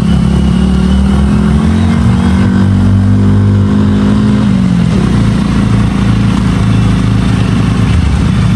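Motorcycle engine running at steady revs, its pitch holding and then dropping off about halfway through.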